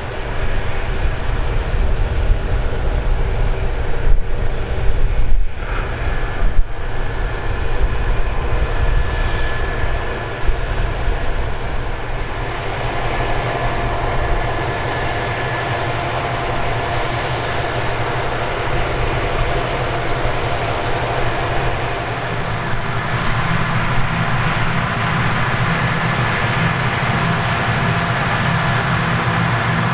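Combine harvester working in the grain, a steady engine and machinery hum with whining tones that come up about twelve seconds in and grow again near the end.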